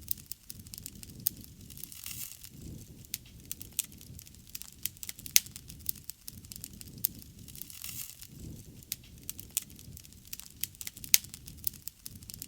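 Wood bonfire crackling and popping, with irregular sharp pops (the loudest about five and eleven seconds in) over a low rumble.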